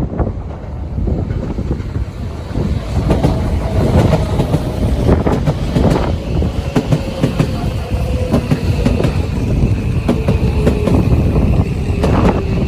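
Tokyo Metro 13000 series electric train rolling in and slowing to a stop, its wheels clicking over rail joints. Its whine falls steadily in pitch as it brakes, and strong wind rumbles on the microphone.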